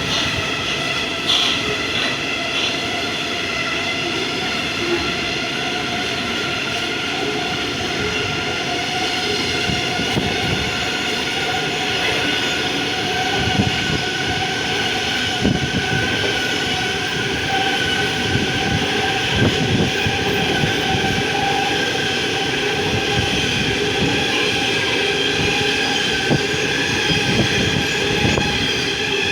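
Long coal train's steel-wheeled wagons rolling past, with a steady squeal of wheels on rail and scattered clicks and knocks over rail joints.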